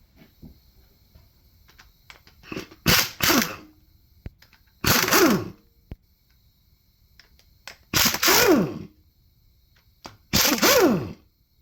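Impact wrench run in five short bursts, the first two close together, loosening fasteners. The tool's pitch falls as it spins down at the end of most bursts.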